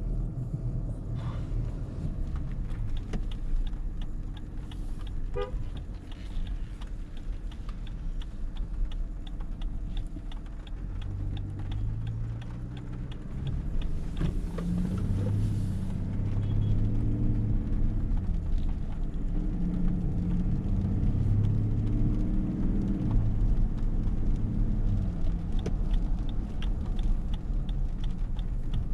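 Lexus LX500d's twin-turbo 3.3-litre V6 diesel driving over a steady low road rumble. From about a third of the way in, the engine note rises and steps back down repeatedly as it pulls through the gears.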